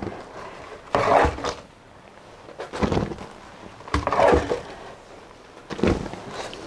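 Boiled ground-soybean mash being handled for straining: a few separate sloshing, knocking splashes about a second and a half apart.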